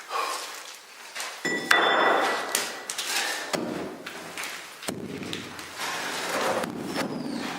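Handling noises: a run of knocks and scraping, with a brief metallic ring about a second and a half in.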